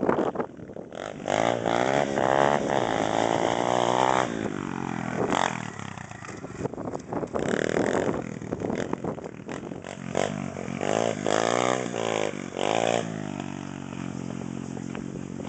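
Demon X 110cc pit bike's single-cylinder four-stroke engine revving hard. The pitch rises and falls again and again as the throttle is blipped and held.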